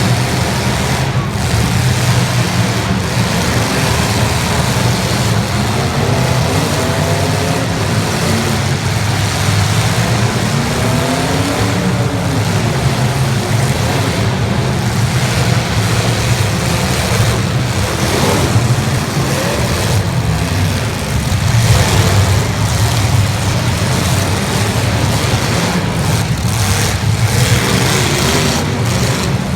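Many 1980s stock cars' engines revving up and down together in a demolition derby, with scattered bangs of cars crashing into each other, more of them near the end.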